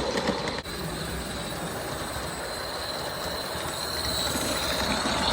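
Modified Aristo-Craft 0-4-0 live steam tank engine running under steam on its track. It makes a steady hissing, rushing sound, with wheels clattering on the rails.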